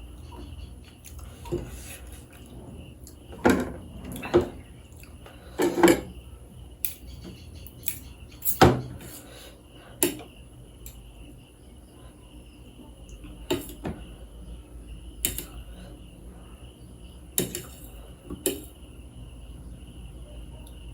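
Cutlery clinking against a plate or bowl while eating, about a dozen sharp, irregular clinks, the loudest a little past a third of the way in.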